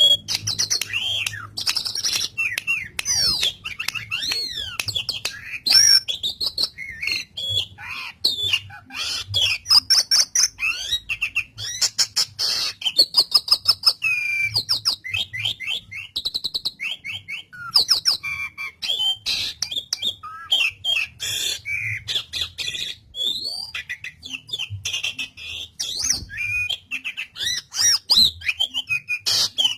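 Asian pied starling (jalak suren) singing nonstop in full voice: a rapid, varied run of whistles and chirps mixed with harsh squawky notes.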